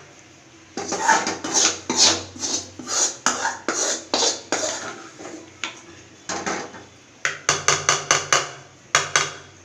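Metal kitchen utensils and pots clattering in quick runs of sharp strikes, two to three a second, with short pauses between runs, over a faint low hum.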